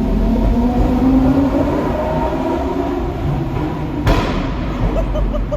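Lamborghini Gallardo Superleggera's 5.0-litre naturally aspirated V10 with an aftermarket exhaust, heard from inside the cabin, pulling with its pitch slowly rising. A single sharp crack comes about four seconds in.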